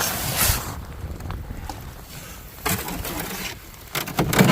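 A fiberglass canoe being handled at the water's edge: three short bursts of rough noise, at the start, in the middle and near the end.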